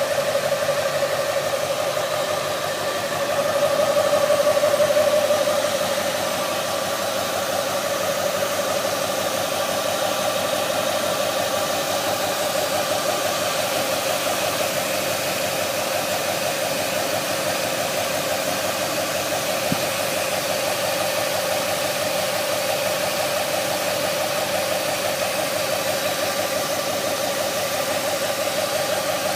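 Steady high whine from a vehicle's engine bay, holding one pitch over running engine noise; it swells louder for a couple of seconds about four seconds in.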